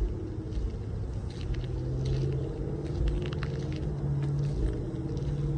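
A motor vehicle engine running, heard as a low steady rumble and hum, with light crunching steps on gravel.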